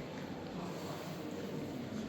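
Steady background murmur of distant voices in a large indoor hall, with no single clear event.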